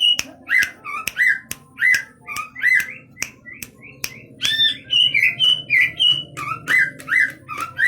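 Cucak ijo (green leafbird) singing a fast string of short, loud whistled phrases, about two a second, with sharp clicking notes mixed in.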